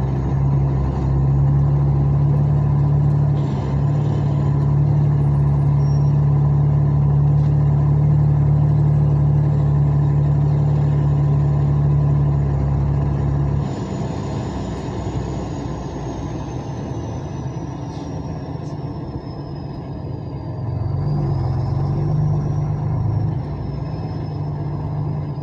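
Heavy truck's diesel engine running steadily under a loud low drone, which drops off sharply about halfway through and picks up again near the end. A thin high whine slowly falls in pitch through the second half.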